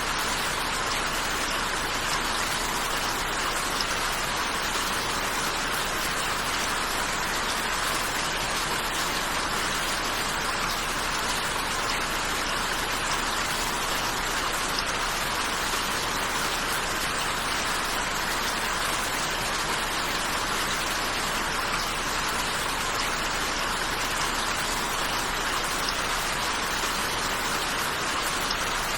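Steady rainfall, an even hiss that holds at the same strength throughout.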